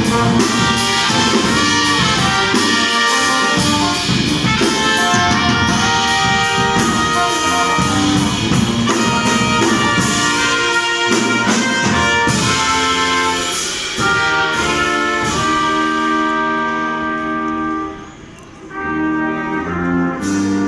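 Brass music with trumpet and trombone, backed by drum hits for most of its length. The drums drop out later on and there is a brief lull shortly before the end.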